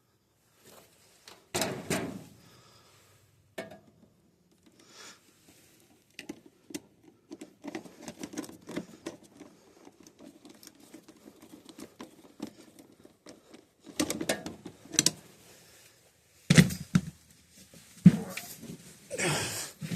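Hands and tools working on an air handler's circuit breaker: irregular clicks, scrapes and rustling as parts and wires are handled, with several louder knocks in the second half.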